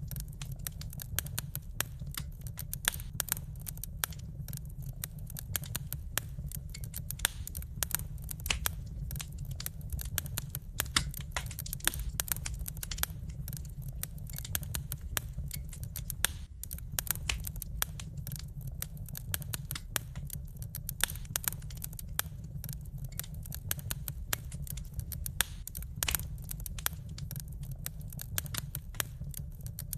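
Wood fire crackling: a steady stream of irregular snaps and pops over a low, even rumble of burning.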